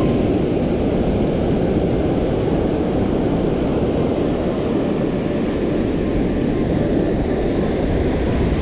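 Heavy surf in rough, post-typhoon seas mixed with strong wind buffeting the microphone: a loud, steady, low rumbling noise that holds level throughout.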